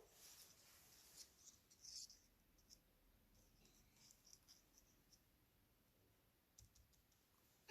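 Near silence with a few faint taps and light rustles of paper pieces being handled and pressed down.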